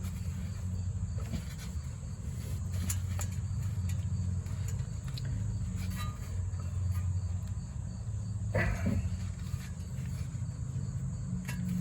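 Crickets trilling steadily over a low hum, with a few faint clicks of hand tools and one short, louder clatter about eight and a half seconds in.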